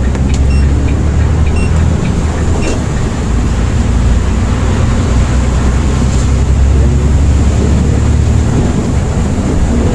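Volvo B8R coach running on the road, heard from inside: a steady low engine and road rumble, with a few faint short high beeps in the first three seconds.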